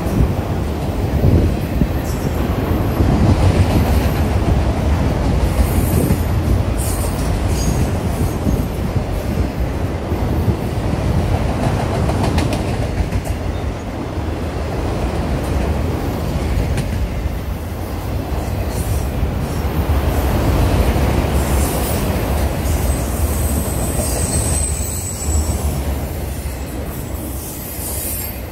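Freight train of autorack cars rolling past: a steady rumble and clatter of steel wheels on the rails. A brief thin squeal from the wheels comes near the end.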